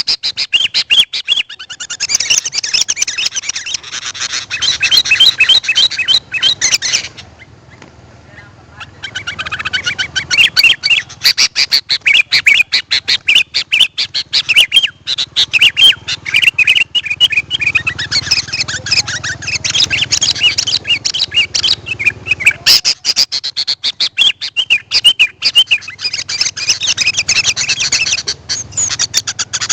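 Sooty-headed bulbul (kutilang) chirping and singing in fast, continuous phrases, with a pause of about two seconds about a quarter of the way in.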